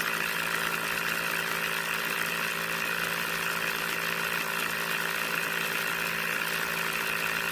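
Small DC motor running steadily at constant speed, with an even high whine over a hiss.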